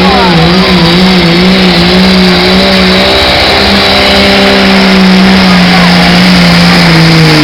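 Pulling truck's engine running hard at high revs under load, loud and continuous, its pitch wavering rapidly, then settling lower near the end.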